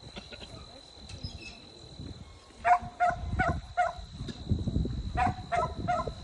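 A dog barking in two quick runs of about four barks each, the first starting almost three seconds in.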